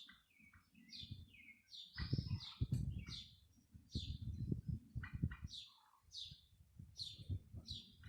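A bird chirping, short falling chirps about twice a second, over bouts of low thumping and rustling.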